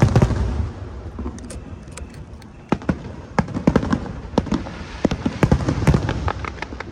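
Aerial fireworks shells bursting in quick succession: a burst of loud bangs at the start, a short lull, then a dense run of bangs through most of the second half.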